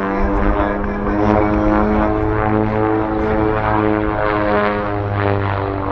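Propeller engines of RV-8 aerobatic planes running through a display, mixed with music over the loudspeakers that changes pitch in steps.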